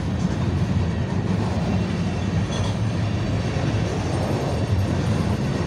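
A long BNSF freight train's cars rolling past on the near track: a steady low rumble of wheels on rail.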